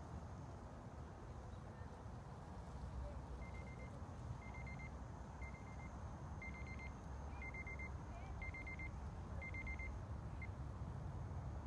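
Steady low background rumble with an electronic beeper sounding short groups of high beeps about once a second, starting a few seconds in and stopping about a second before the end.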